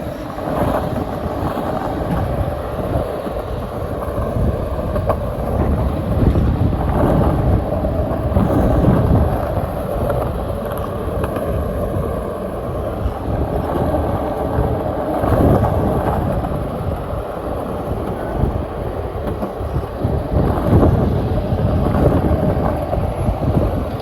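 Skateboard wheels rolling over pavement, a continuous rumble that swells and eases every few seconds, with wind buffeting the microphone.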